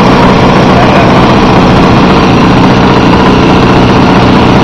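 Saito FA-125 four-stroke glow engine on an RC aerobatic plane running steadily at an even speed.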